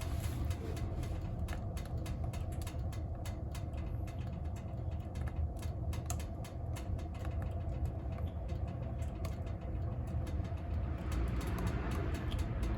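Wood fire burning in a wood stove: irregular sharp crackles and pops over a steady low rumble, with a hissier stretch near the end.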